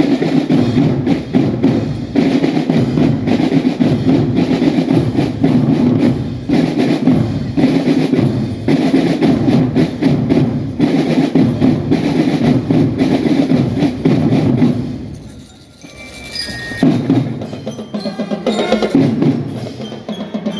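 Marching drum band playing: snare, tenor and bass drums in a dense, fast rhythm with bell lyre notes. About three-quarters of the way through the drumming briefly drops away, then starts up again.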